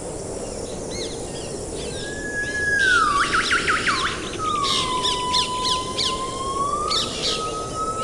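Several forest birds calling together over a steady background hiss. One bird holds long, drawn-out whistles that fall and then slowly rise again, with a quick run of looping notes about three seconds in, while others give short rising chirps.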